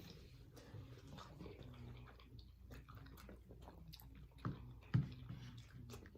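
Person chewing a mouthful of creamy buffalo chicken mac and cheese: soft, wet mouth clicks and smacks, with two louder clicks about four and a half and five seconds in.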